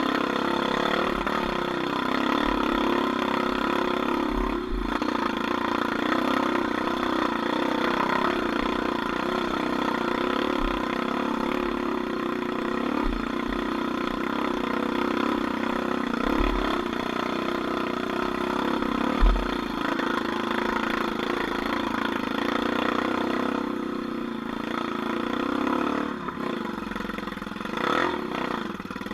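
Engine of an off-road vehicle running steadily, with short low thumps now and then.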